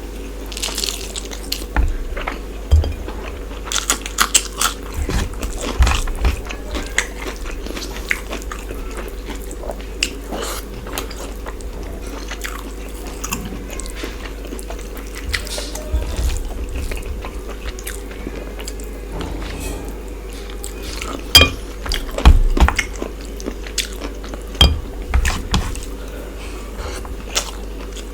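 A person chewing and biting chicken curry with rice close to the microphone: irregular wet clicks and crunches, loudest about three quarters of the way through.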